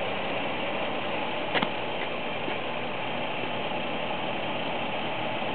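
Dodge Charger police car's engine idling steadily, with one brief click about a second and a half in.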